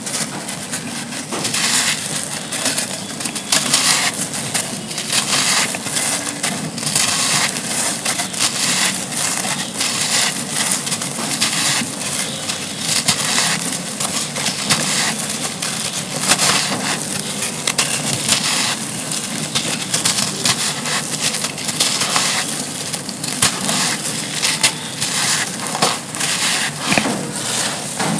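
Dry, gritty sand slabs being crumbled and crushed: a dense, continuous run of crunching and crackling.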